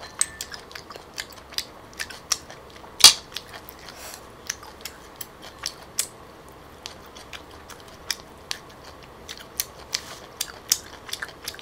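Close-miked eating sounds: chewing of grilled clam meat and fresh herbs, with many small wet mouth clicks and one much sharper click about three seconds in.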